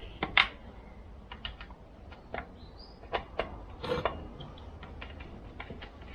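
Irregular small clicks and taps of hand tools and screws being worked on a Shindaiwa 488 chainsaw during reassembly, with louder clicks about half a second in and again near four seconds.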